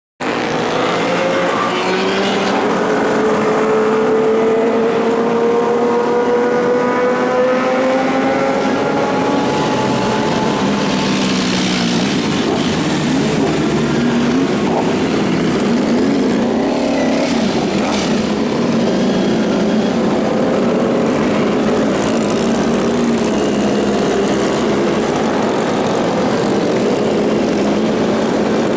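Superbike engines running loud, one rising steadily in pitch as it accelerates over the first ten seconds, then a denser mix of several engines revving and passing.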